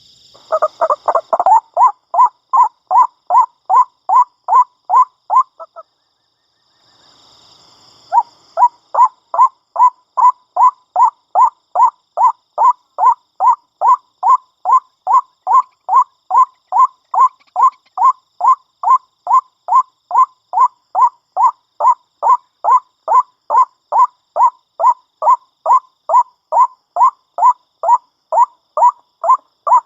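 White-breasted waterhen (ruak-ruak) calling: a monotonous, evenly repeated note at about two a second, breaking off about six seconds in and starting again about two seconds later.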